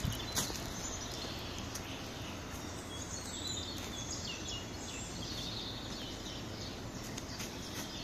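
Woodland songbirds giving short chirps over a steady background rush.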